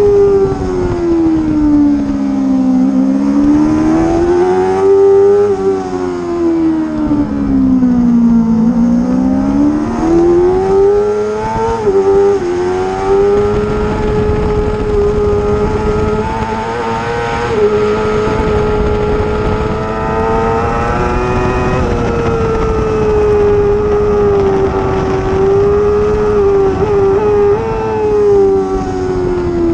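Racing motorcycle engine at high revs, its pitch falling and climbing again twice, as under braking into corners and accelerating out. It then holds high and steady for a long stretch before dropping near the end.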